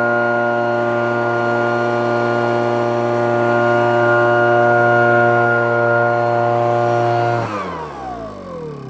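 Yanmar MK150 backpack power sprayer's small engine running at a steady speed, then shut off about seven and a half seconds in, its pitch falling as the engine and fan wind down.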